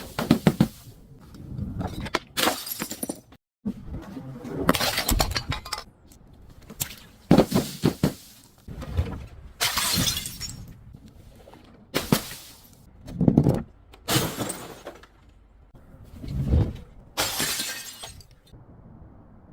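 Glass bottles breaking under crushing: a long series of separate crunching, shattering breaks, one every second or two.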